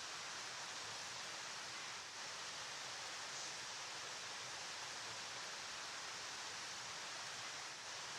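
Flowing river making a steady, even rushing hiss, with two slight, brief dips in level.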